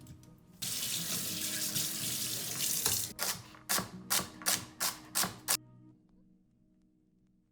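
Kitchen tap running into a sink, steady for about two seconds, then broken into about seven short splashes as something is moved in and out of the stream, then stopping.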